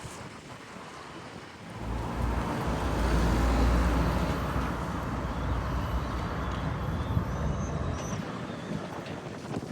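PKTS 71-931M Vityaz-M low-floor tram running, its low rumble and steady low tones swelling suddenly about two seconds in and then holding loud.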